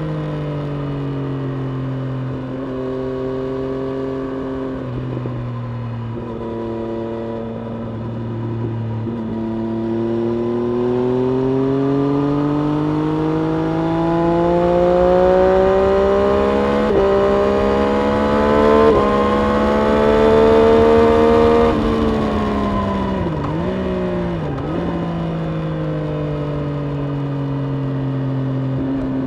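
Triumph Street Triple RS 765 three-cylinder engine on track, heard onboard: it holds fairly steady with a few small pitch steps, then climbs in revs for over ten seconds before dropping sharply a little past the middle. Two brief dips in pitch follow, then it runs on steadily.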